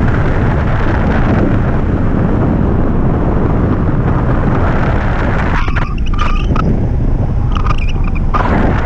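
Wind rushing over the microphone of a camera riding on a hang glider in flight: a loud, steady rumble that thins out in the last few seconds.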